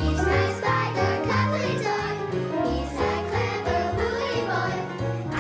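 Cheerful children's theme music with children singing over a steady bass line.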